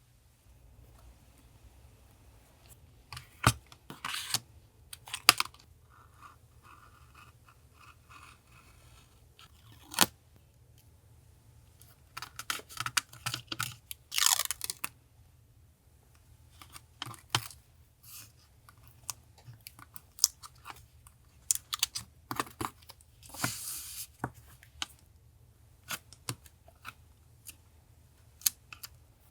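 Paper being handled for a journal collage: scattered taps and clicks of paper and tools on the desk, with three longer spells of paper rustling or tearing about four, fourteen and twenty-three seconds in. A faint low hum runs underneath.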